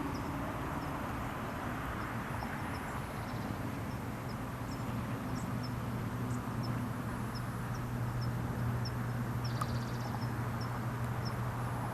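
Steady outdoor background noise with a low steady hum, and a run of short, high chirps repeating at irregular intervals through most of it.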